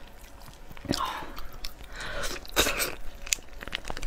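Close-up eating sounds of raw lobster meat being bitten and chewed, with a few sharp clicks.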